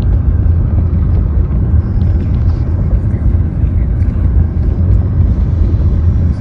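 Loud, steady low rumble with no clear rhythm or pitch, heaviest in the bass.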